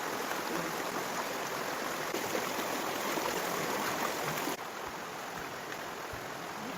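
Steady rushing noise like flowing water. It steps down a little in level about four and a half seconds in.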